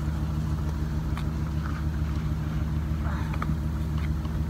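Vehicle engine idling, a steady low hum, with a few light clicks and a brief rattle of something being handled about three seconds in.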